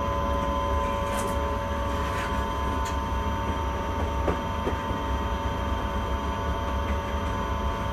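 Steady hum and low rumble of a train driver's cab, with several fixed electrical tones and a few faint clicks.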